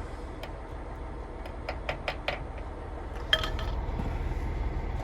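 Sharp metallic clinks and taps of tools or parts being handled on a truck, over a steady low rumble. There is a single clink early, a quick run of four near the middle, and a louder ringing clink past halfway.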